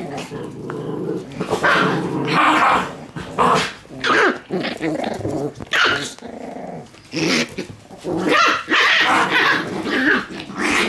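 Shiba Inu puppies growling and yapping at each other in rough play, in repeated short bursts.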